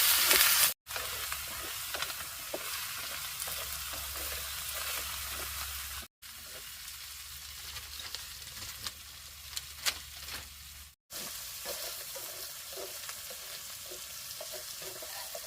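Food sizzling in hot oil in a pan, a steady hiss with scattered pops and crackles. The sound drops out briefly three times between cuts, and it is louder before the first cut.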